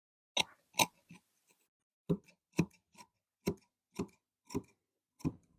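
A run of about ten sharp clicks and taps, roughly two a second and slightly uneven, from a tailor's hand tools at work on the cutting table.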